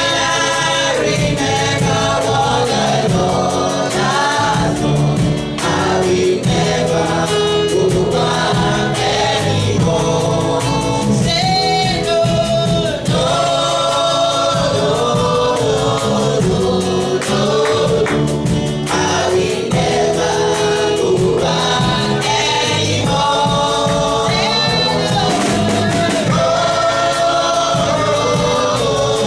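Gospel-style worship music: a choir singing a melody over instrumental backing.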